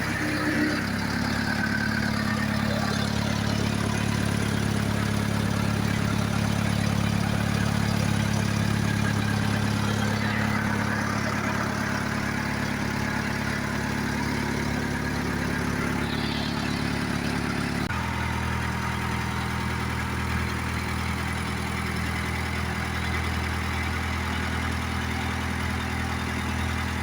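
Diesel engine of an old backhoe loader running steadily, its note changing about eighteen seconds in.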